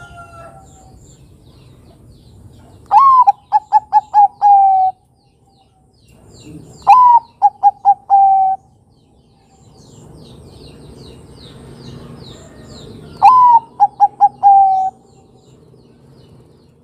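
Zebra dove (perkutut, Bangkok type) cooing: three song phrases, each a higher opening note, then four quick short coos and a longer closing coo. Faint chirps of small birds sound behind.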